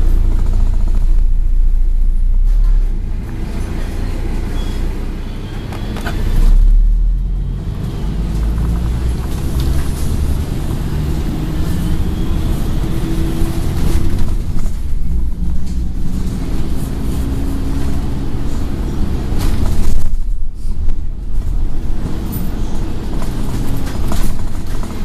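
Scania N113 double-decker bus heard from on board while driving between stops. Its engine runs with a deep rumble, the note rising and falling as the bus speeds up and eases off.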